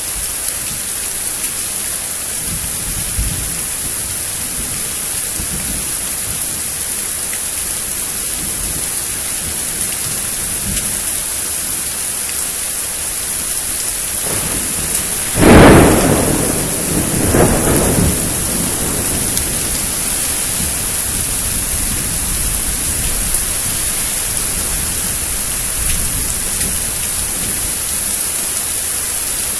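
Steady rain hissing down during a thunderstorm, with a sharp, loud thunderclap about halfway through and a second, weaker peal of thunder about two seconds after it.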